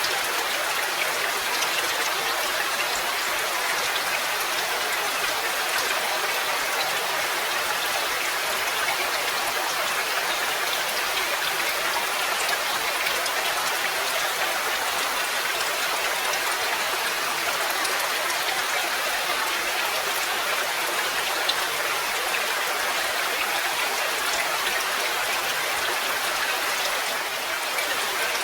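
Steady rain falling, an even patter of many drops with scattered sharper drips ticking through it.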